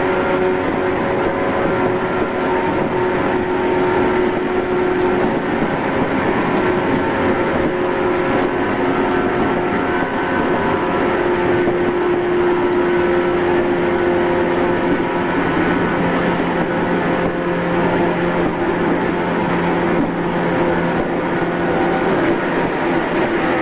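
JR East 113 series electric train running between stations, heard inside the carriage: a steady hum from the traction motors and gears, several held tones over the rush of wheels on the track. The pitch drifts a little, and a lower tone joins partway through.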